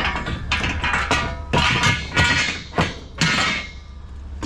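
Metal futon frame parts clanking and rattling as they are handled, about six separate knocks with a metallic ring.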